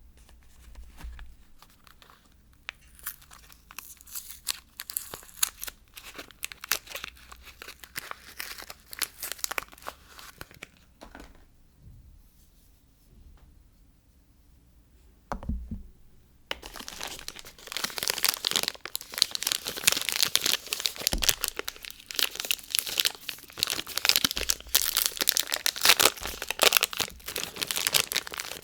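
Soap bar wrapping being torn open and crinkled by hand. Crackly rustling comes in spells, goes quieter for a few seconds, then a single knock, then dense, continuous crinkling over the last twelve seconds or so.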